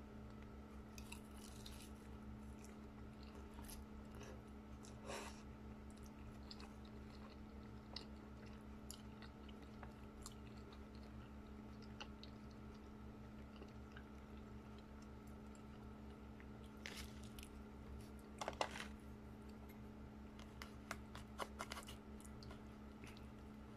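Close-up chewing and biting of baked sushi wrapped in roasted seaweed (nori), with soft crunches and small wet mouth clicks over a faint steady hum. Near the end come a few sharper, louder clicks and scrapes as a spoon digs into an aluminium foil tray.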